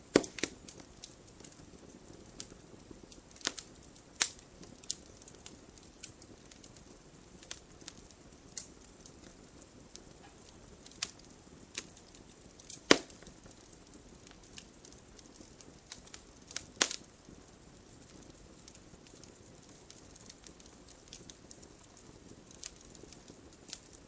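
Wood fire crackling: irregular sharp pops and snaps over a soft, steady hiss of burning, with a few louder snaps among many small ones.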